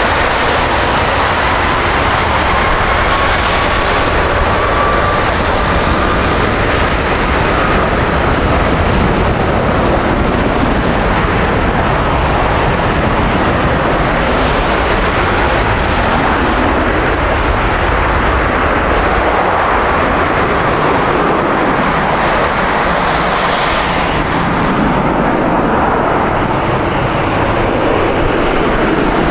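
Jet airliner engines, loud and steady, with a faint whine slowly rising in pitch over the first several seconds.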